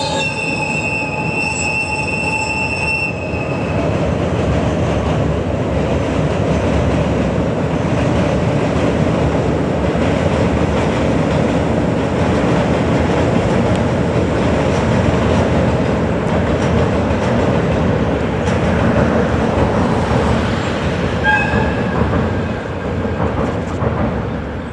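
Diesel-hauled passenger train, locomotive DE10-1099 with three coaches, running past loudly with a steady rumble of wheels on rail. High squealing tones ring out over it for the first few seconds and again near the end, typical of wheel flanges squealing on a curve.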